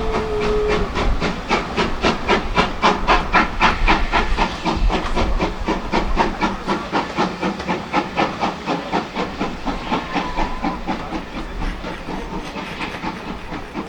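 GWR Manor class 4-6-0 steam locomotive No.7802 Bradley Manor working a train, its exhaust beating rapidly and evenly with steam hiss, then fading over the last few seconds as it draws away. A held tone ends about a second in.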